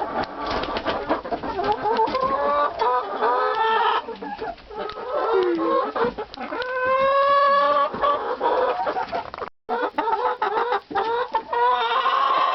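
Chickens clucking and calling over food, many pitched calls overlapping with sharp clicks, and one long drawn-out call about seven seconds in. The sound cuts out for a moment about three-quarters of the way through.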